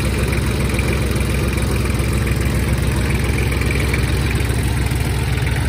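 Tractor engine idling steadily, a low, even drone with a rapid regular beat.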